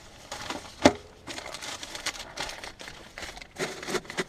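Firewood and kindling being handled and laid for a fire in a barbecue grill: irregular rustling and clattering of sticks, with one sharp knock about a second in.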